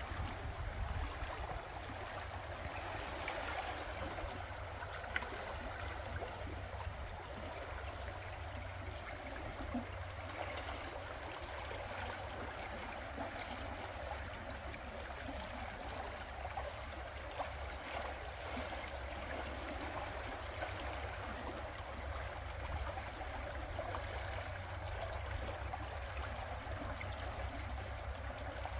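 River water running: a steady rushing babble with a low rumble underneath and faint small splashes here and there.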